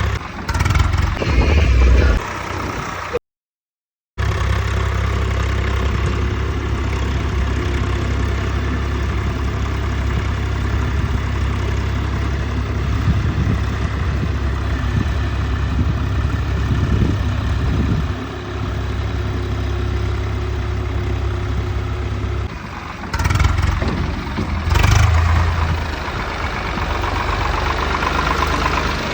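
Swaraj 855 tractor's three-cylinder diesel engine running at a steady idle. It is louder and more uneven near the start and again about 23 to 26 seconds in, and it cuts out abruptly for about a second just after 3 seconds in.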